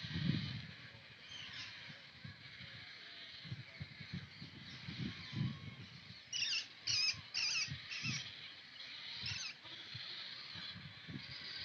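A flock of migratory waterbirds calling at a pond: a steady background of many overlapping calls, with a run of about four loud, short calls in quick succession a little past the middle and another call about two seconds later. Scattered low bumps run underneath, the loudest right at the start.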